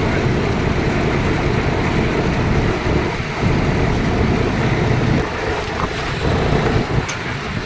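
Tractor engines running, a dense low noise that dips and swells a few times.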